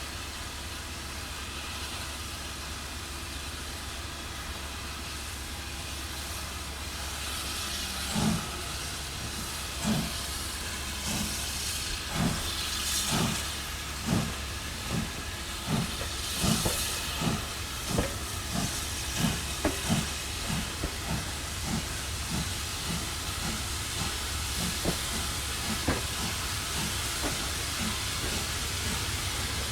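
Caledonian Railway 0-4-4T steam tank locomotive No. 419 hissing steam, then about eight seconds in its exhaust beats start, single beats that come quicker and quicker as the train gets under way.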